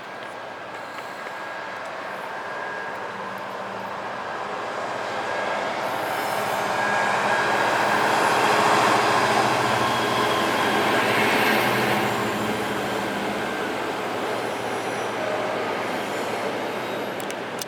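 A train passing close by. The rumble swells to its loudest about eight or nine seconds in, then eases off, with a steady high wheel squeal running through it. The sound cuts off suddenly at the end.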